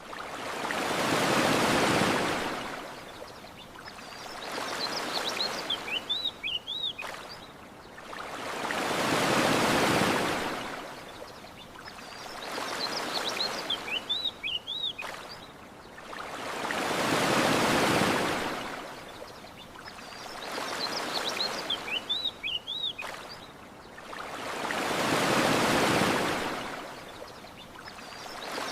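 Ocean waves washing onto a shore in a regular rhythm: a big swell about every eight seconds with a smaller one between. Short high bird chirps come between the waves and repeat on the same eight-second cycle.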